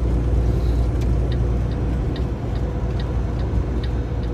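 Kenworth T680 semi truck running down the highway, heard inside the cab as a steady engine and road rumble. From about a second in, light ticking repeats evenly, about two to three times a second.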